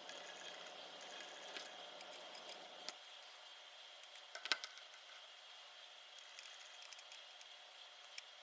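Faint small clicks and taps of handling tiny parts and tools, with one sharper click about four and a half seconds in. A low background hum stops about three seconds in.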